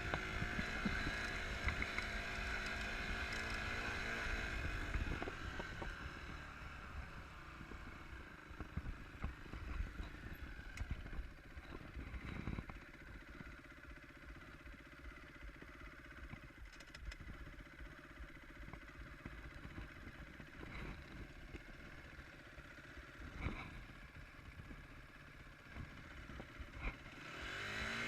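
Enduro dirt bike engine running. It holds a steady note for the first few seconds, then drops to a quieter low rumble with scattered knocks and rattles, and revs up again near the end.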